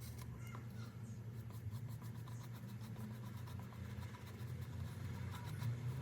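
Soft scratching of a paintbrush laying on acrylic paint, with a few light ticks, over a steady low hum.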